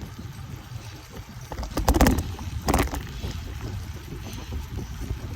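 Bicycle riding over a rough trail: a steady low rumble of wind and rolling on the bike-mounted phone's microphone, with a cluster of clattering knocks about two seconds in and another just under a second later as the bike jolts over bumps.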